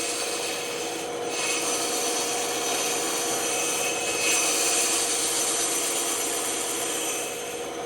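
Bandsaw running with its blade cutting through a small piece of wood: a steady motor hum under a continuous rasping of the cut.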